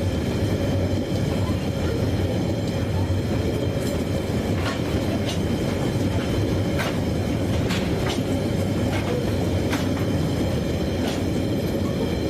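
Train running: a steady rumble, with sharp clicks at uneven intervals from about four seconds in.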